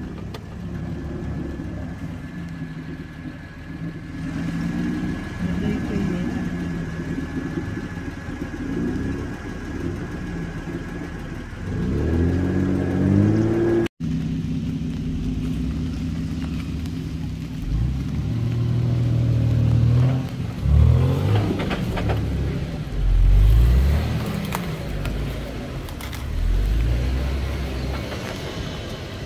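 A 4x4 SUV engine labouring and revving in surges as the vehicle crawls up a rutted, muddy trail. The revs climb steeply about twelve seconds in, and several louder, deeper surges follow in the second half.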